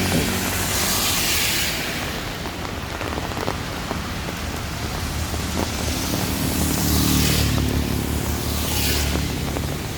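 Heavy rain falling steadily while vehicles pass on the wet road, their engine hum and tyre swish swelling and fading about a second in and again around seven and nine seconds.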